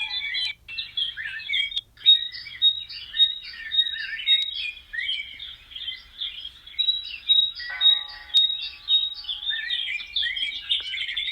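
Many small birds chirping and twittering together in a dense, overlapping chorus. A high, clear note repeats at about three a second twice within the chorus.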